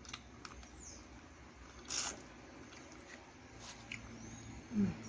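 Close-miked mouth sounds of a person eating meat by hand: chewing with scattered lip-smacking clicks and a louder wet smack about two seconds in. A short, low falling sound comes near the end.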